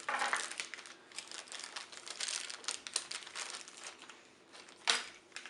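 Plastic packaging crinkling and rustling as a toy volcano kit's contents are handled, with one sharp crackle near the end.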